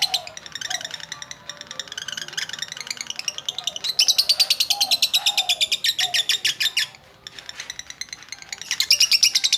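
Female lovebird in full song: long runs of rapid, high-pitched chirping trills. It chatters more softly at first, then breaks into loud trills about four seconds in and again near the end.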